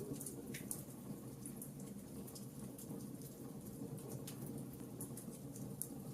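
Fireplace crackling: irregular small sharp pops and snaps over a low, steady rumble of burning.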